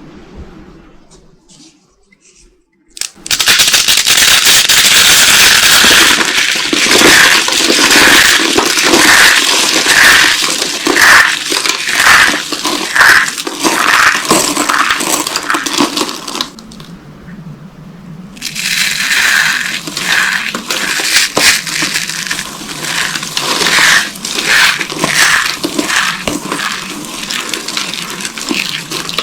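Dry soap boxes with corn starch being crushed: dense crunching and crackling that starts about three seconds in, with a crunch about every second. It stops for about two seconds past the middle, then starts again.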